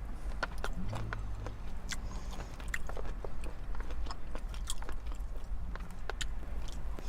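Close-up chewing and biting of a mouthful of sushi, with many small wet mouth clicks, over a steady low rumble.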